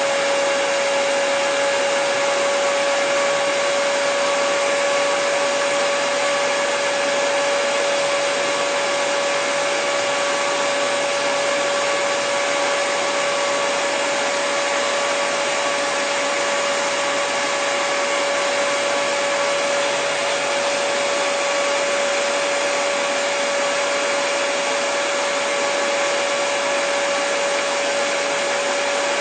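Hair dryer running steadily: a constant rushing blow with a steady whine of the fan motor, unchanging throughout.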